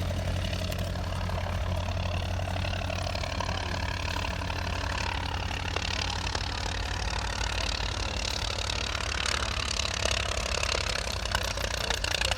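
Vintage aircraft piston engine running steadily at low power, with a rapid, even firing beat.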